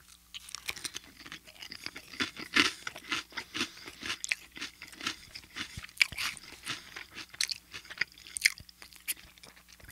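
Close-miked chewing of a crisp toast round: a bite at the start, then a run of irregular crunches. The sharpest crunches come about two and a half, six and eight and a half seconds in.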